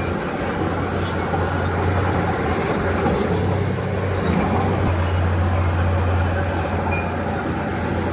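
Komatsu D31P crawler bulldozer working, its diesel engine running with a steady low drone.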